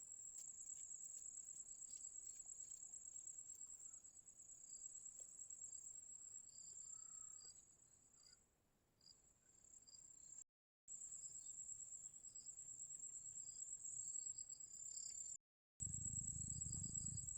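Crickets trilling, a faint steady high-pitched trill with softer chirps beneath it, cut off briefly twice. A low rumble comes in near the end.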